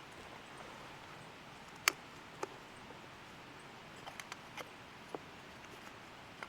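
Wood campfire crackling: scattered sharp pops and snaps at uneven intervals, the loudest about two seconds in and a quick cluster a little past four seconds, over a faint steady hiss.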